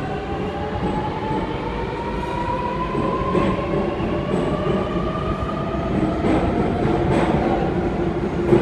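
Double-deck electric train (Sydney Trains Millennium M set) accelerating away from the platform, its motor whine rising steadily in pitch over the rumble of the cars. A few wheel clacks sound about halfway through and near the end.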